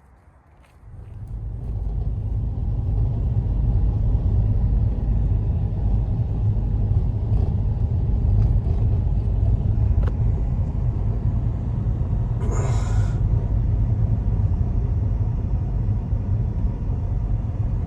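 Strong wind buffeting the microphone, a steady low rumble that sets in about a second in. A brief pitched squeak sounds about two-thirds of the way through.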